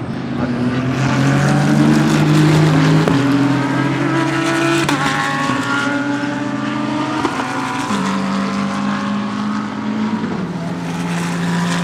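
GT3 race car engines running at held, steady revs, the pitch jumping in steps a few times as gears change.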